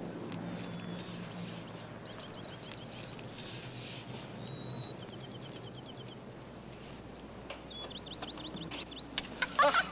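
Small bird chirping, with short high chirps and a quick run of repeated chirps about halfway through, growing louder near the end.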